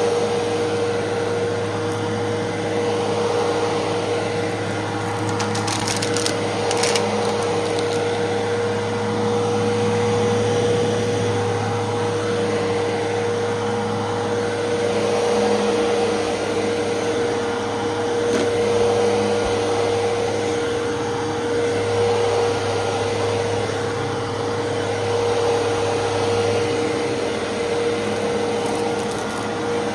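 Fantom Fury 10-amp upright vacuum cleaner running steadily: a constant motor whine over a low hum. A few brief crackles come about five to seven seconds in.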